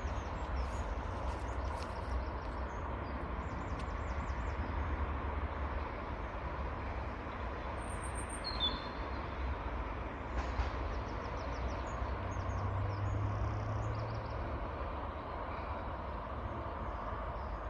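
Outdoor ambience: a steady low rumble with faint, scattered high bird chirps and a short bird call about eight seconds in.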